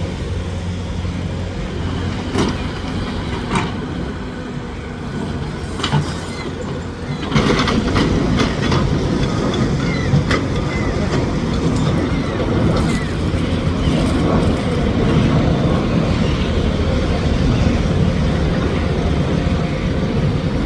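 A vehicle or machine engine running steadily, with a few sharp knocks in the first six seconds; the noise grows louder and denser about seven seconds in.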